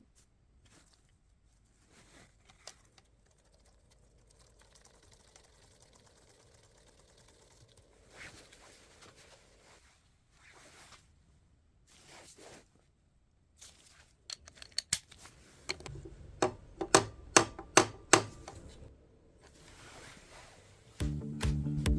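Hand tools being worked on a scooter: faint handling noises, then a quick run of sharp clicks and taps over several seconds in the second half.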